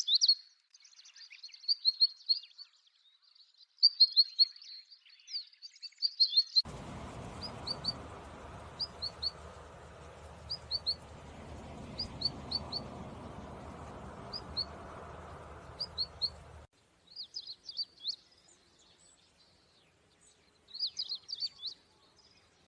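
Small songbirds chirping and twittering in quick high notes. For about ten seconds in the middle, a steady rushing background noise sets in and then cuts off abruptly; over it the calls become short clipped notes in groups of two or three, repeated every second or two.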